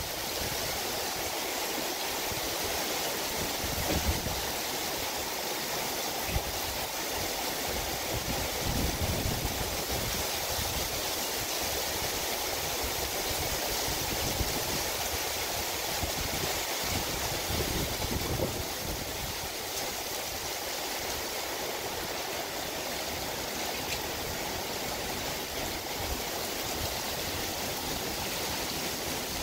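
Steady rain falling on pine trees and forest foliage, an even hiss that holds through the whole stretch.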